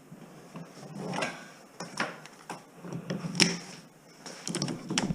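Wire being pulled and worked with hand cutters: scattered sharp clicks and snaps over rustling, coming faster near the end.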